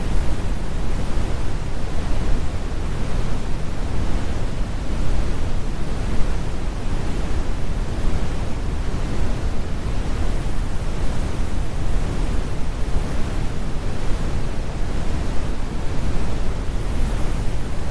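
Steady synthetic brown noise: a deep, even rumble with the high frequencies rolled off, unchanging throughout.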